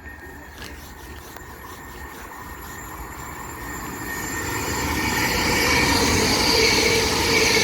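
A five-car Hitachi Class 802 bi-mode train approaching through the station, a rumble that grows steadily louder for about five seconds and then stays loud, with a steady whine over it.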